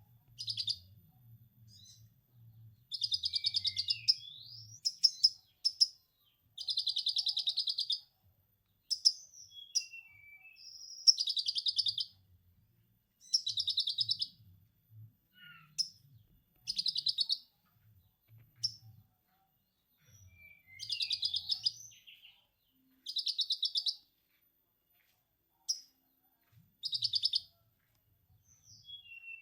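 A captive kolibri ninja (konin) sunbird singing lovebird-style 'ngekek' chatter. It gives repeated bursts of fast, rattling high notes about a second long, broken by short thin whistles and falling slurs, over a faint low hum.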